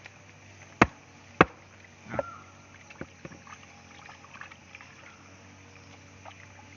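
Knife chopping through an eel, two sharp strikes a little under a second apart about a second in, followed by small scattered knocks and clicks as the pieces are handled.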